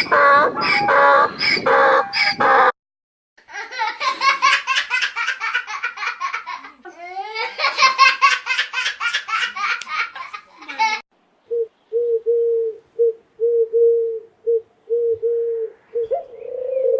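A sequence of animal calls. First come quick repeated pitched calls, then a short gap, then a long run of rapid clucking-like calls. After about 11 seconds it changes to soft, steady, low cooing in short broken phrases, like a dove.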